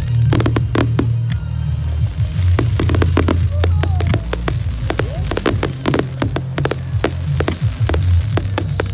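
Fireworks display: a rapid string of sharp bangs from aerial shells bursting, several a second, over a heavy low rumble.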